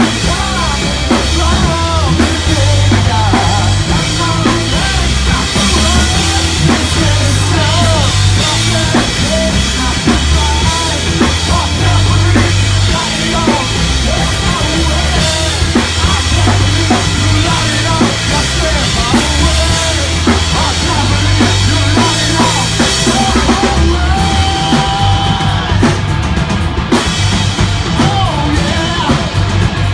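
A rock band playing live with a loud drum kit, a moving bass line and a wandering melody line in an instrumental passage without singing. Drum hits come thicker near the end as the drums build into a fill.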